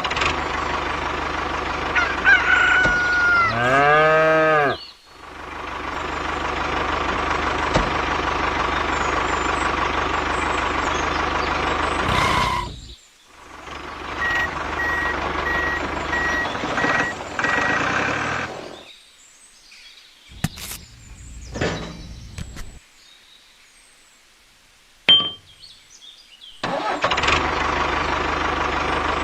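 Small engine running steadily in several stretches that cut off suddenly, with a rooster crowing.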